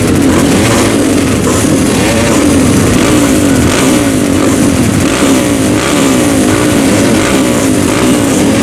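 Grasstrack racing motorcycle engine revved up and down over and over, its pitch rising and falling about once a second.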